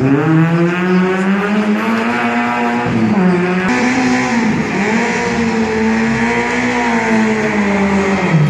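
Competition car's engine revving hard on a gymkhana run. The revs climb at the start, drop briefly about three seconds in as the driver lifts off, climb again, then fall near the end.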